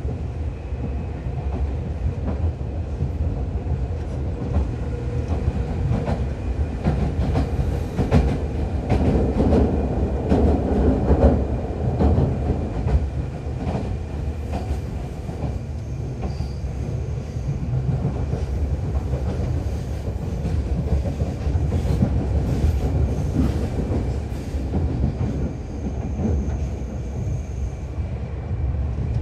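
Seibu New 2000 series electric commuter train running, heard from inside the car: a steady low rumble with wheels clacking over rail joints, loudest and busiest around the middle.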